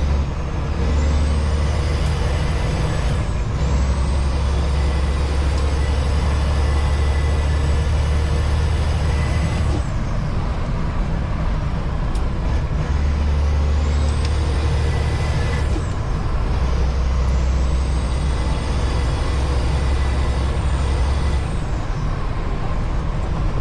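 Semi truck's diesel engine pulling under load, with a high turbo whistle that rises, holds and falls away twice. The engine note drops out briefly about three seconds in and again around sixteen seconds.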